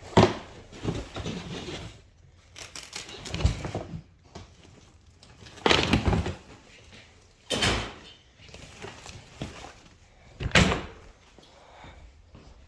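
Packing and handling noises: a series of knocks, thuds and rustling bursts as items and containers are moved and shut, the sharpest near the start and about six, seven and a half and ten and a half seconds in.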